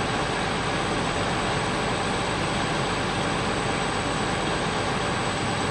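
A heavy engine idling steadily, an even noise that does not change.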